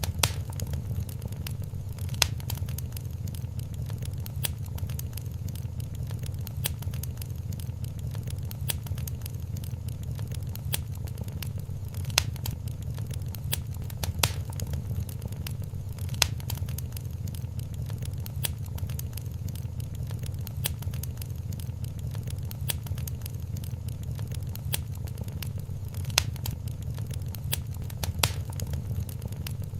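Wood fire crackling in a fireplace: irregular sharp pops and snaps, a few standing out loudly every few seconds, over a steady low rumble.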